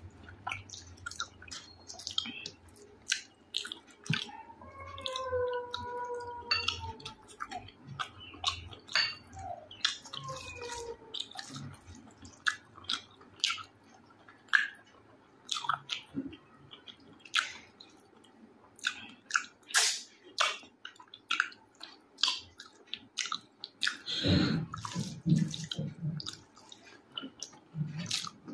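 Close-miked wet mouth sounds of someone eating rice with a spicy chicken curry: many short, sticky smacking clicks of chewing, irregular and close together.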